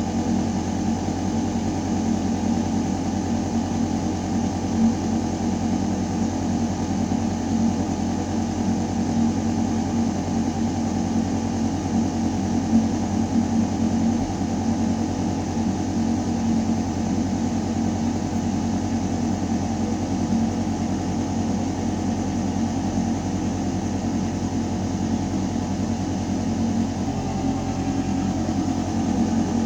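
Building ventilation system running in a metal air shaft: a steady mechanical hum with moving air, several constant tones over a low drone.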